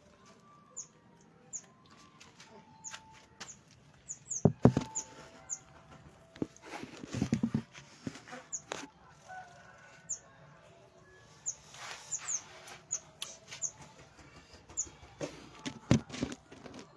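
Birds in an aviary: repeated short, high chirps, with a flurry of wing flapping in the middle and a couple of sharp knocks, loudest about four seconds in and near the end.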